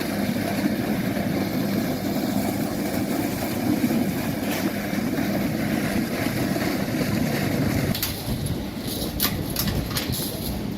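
A motor vehicle's engine running steadily. About eight seconds in, the engine sound eases and a series of sharp clicks or knocks follows.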